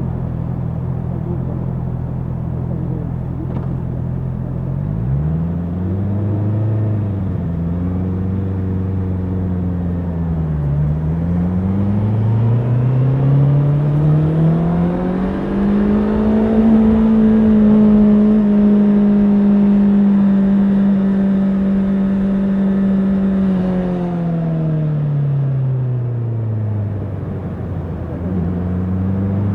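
Honda CBR650R's inline-four engine running at a steady low rpm, then revving from about five seconds in: it rises and falls twice, climbs smoothly to a high rpm held for several seconds, and drops back before picking up again near the end.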